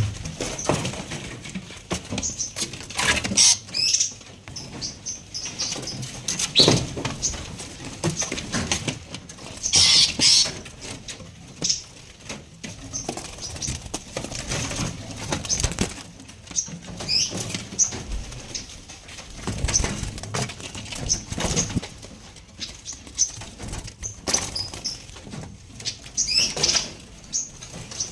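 Small caged songbirds giving short, high chirps every second or so, mixed with brief fluttering of wings and scratchy rustles as they move about.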